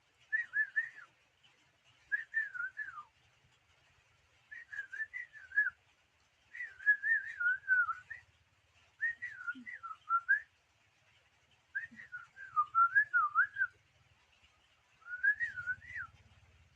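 A pet songbird singing, seven short whistled phrases about a second long each, with brief pauses between them; the notes waver up and down within each phrase.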